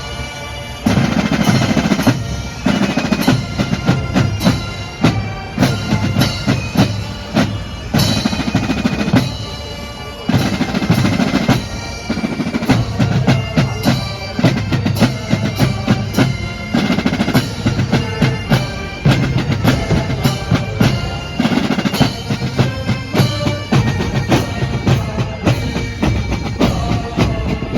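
Drumming: a dense run of rapid drum hits with short pitched tones over it, heard as loud percussive music.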